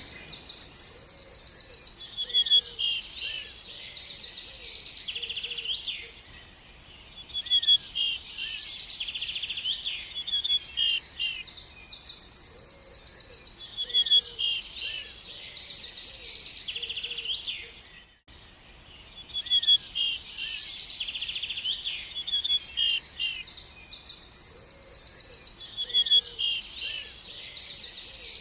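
A songbird singing long, varied phrases of fast trills and chirps, repeated in similar bouts with a short pause between them.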